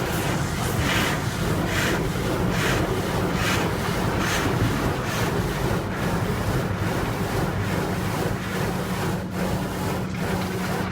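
Coleman Hanna car wash tunnel heard from inside the car: wash water spraying and brushes working over the car with a steady low hum, the swishes repeating a little more than once a second.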